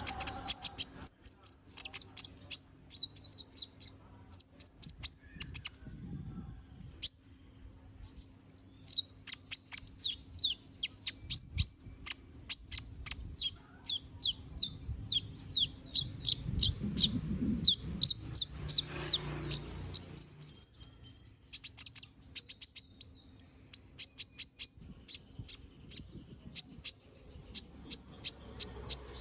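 Kolibri ninja (konin) singing hard, pouring out its song: fast runs of short, high, sharp chirps, each sweeping quickly in pitch, broken by brief pauses about seven and twenty seconds in.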